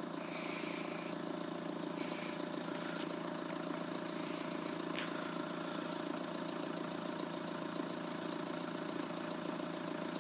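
A steady low mechanical hum made of several constant tones, with a few faint short sounds over it.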